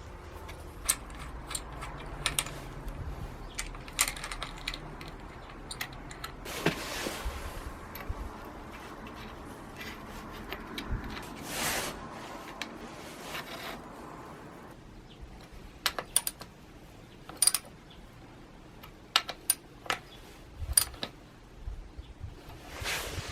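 Hand work on brush cutter parts: irregular clicks and clinks of small metal parts and tools being handled, some ringing briefly, with a couple of longer rustling swishes.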